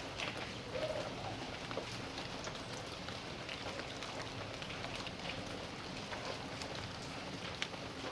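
Rain falling in a backyard: a steady patter with many separate drops striking close by. There is a short tone about a second in.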